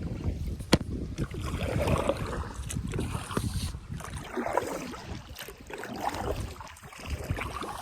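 Kayak paddling: paddle strokes dipping and splashing in the river water, with a sharp knock under a second in.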